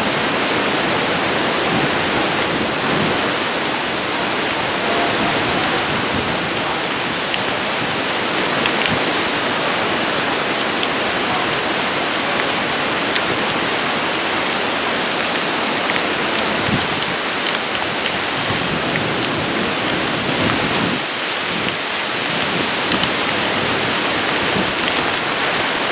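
Heavy storm rain pouring down in a steady, loud hiss, with scattered drops ticking on surfaces.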